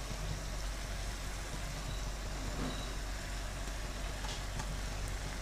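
Grated cabbage and cauliflower sizzling faintly in hot oil in a non-stick pan: a steady, even hiss over a low hum.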